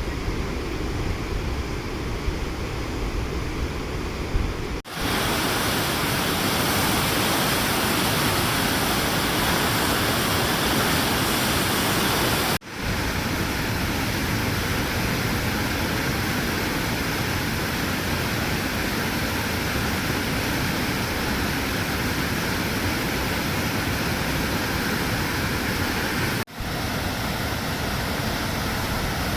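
Rushing water of a waterfall on the Cheakamus River, a steady dense hiss. It shifts abruptly three times, dipping for an instant and returning brighter or duller, as the shot changes between viewpoints on the falls.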